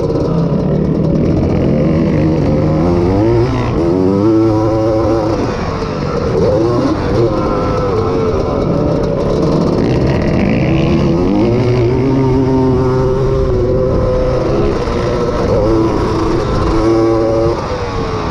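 Honda ATC250R three-wheeler's two-stroke single-cylinder engine racing hard, its pitch repeatedly climbing and then dropping back as the throttle opens and closes and it goes through the gears.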